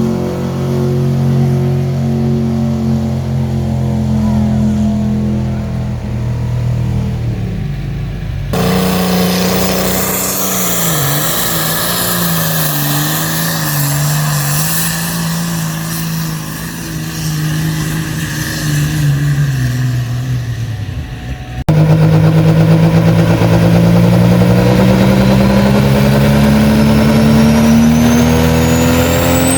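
Engines of pulling trucks or tractors running hard, in three cut-together clips. First comes a steady high-revving engine. From about a third of the way in, an engine's pitch wavers up and down under load. Near two thirds in, a louder engine begins climbing steadily in pitch as it revs up.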